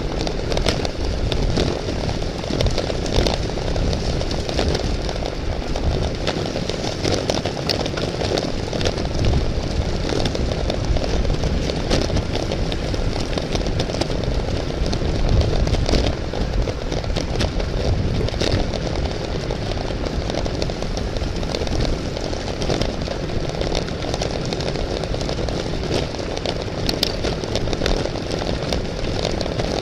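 Steady wind rush over the microphone of a camera carried on a road bicycle at race speed, with scattered sharp clicks.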